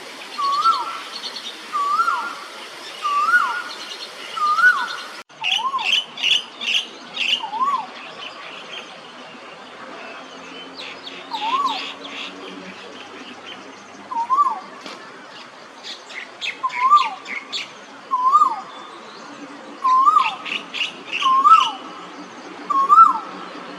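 Wild birds calling: one bird repeats a short whistled note that rises and then drops, about every second or two, while other birds chirp in quick higher-pitched bursts.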